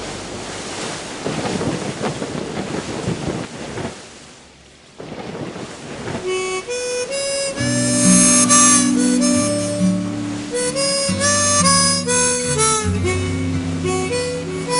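A rushing noise fades out over the first few seconds, and there is a brief lull. Then, about six seconds in, a song's instrumental introduction begins: harmonica playing held and bending notes over guitar and bass.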